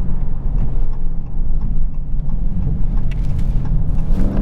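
2020 Dodge Charger Scat Pack's 6.4-litre V8 running at a steady road speed, a constant engine drone that holds one pitch.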